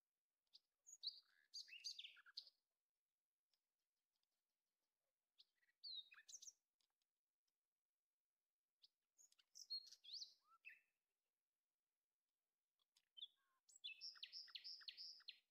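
Faint bird chirping: four short phrases of whistled chirps and quick pitch glides, the last a rapid run of repeated notes near the end.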